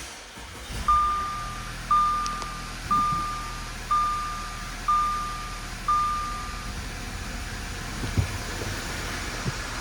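Six evenly spaced electronic warning beeps, about one a second, that stop about seven seconds in. Under them runs a steady low hum, likely the Audi A5's 2.0-litre four-cylinder engine idling, with a short knock near the end.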